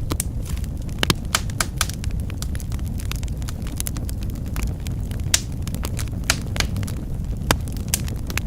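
Wood fire crackling in a fireplace: irregular sharp pops and snaps, several a second and unevenly spaced, over a steady low rumble of burning flames.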